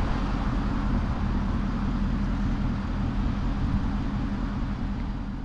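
2016 Ford Mustang GT's 5.0 V8 with Roush cat-back exhaust running steadily on the move: a low engine drone under road and wind noise.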